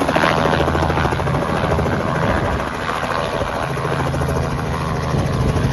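Robinson helicopter running: a fast, steady beat of the rotor blades over a continuous engine hum.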